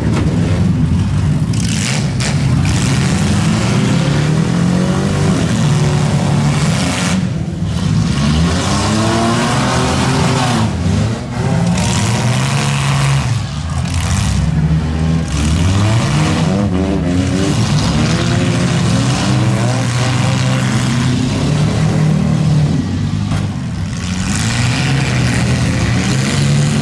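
Several demolition derby cars' engines running and revving hard together, their pitch rising and falling over and over.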